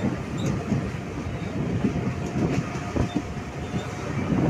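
Mumbai suburban EMU local train running, heard from inside the coach: a steady rumble of wheels on track with a few sharp clicks over rail joints.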